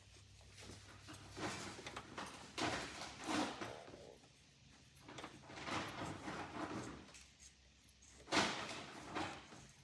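Hand tools working on an engine ground nut: irregular metallic scrapes and rattles of a wrench, with a sharper clunk about eight and a half seconds in.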